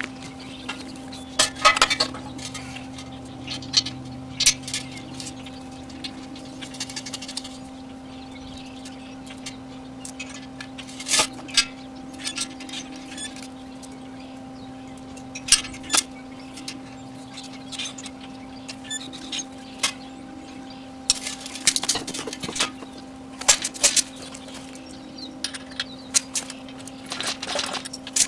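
Welding and metalwork on steel landing-gear parts: a steady hum under irregular sharp metal clinks and several short crackling bursts, the longest around two-thirds of the way in and near the end.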